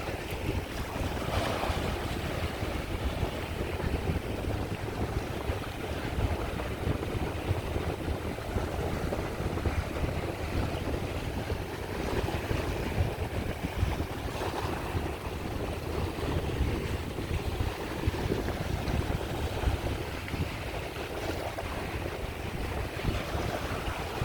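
Sea waves washing onto the shore in a steady surf, swelling and easing, with a low rumble of wind buffeting the microphone.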